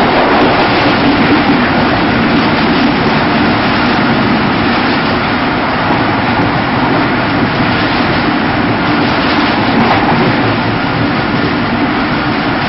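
Passenger express train running at high speed, heard from an open coach doorway: a steady, loud rush of wind and wheel-on-rail noise.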